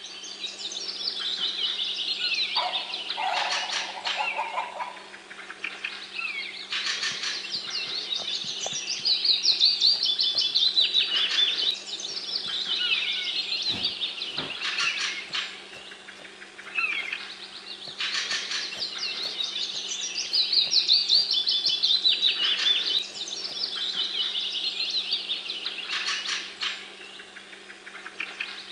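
Birds chirping and chattering in a dense chorus of rapid trills, coming in waves of a few seconds, over a steady low hum.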